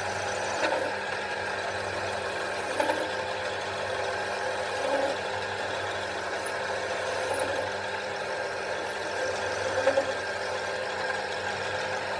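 A machine running steadily with an even hum, with a few short knocks over it.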